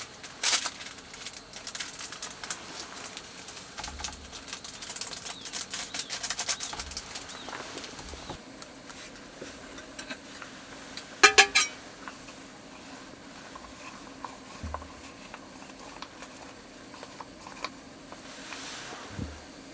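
Scattered light clicks and clinks of small objects being handled, with a short run of sharp, loud clicks about eleven seconds in.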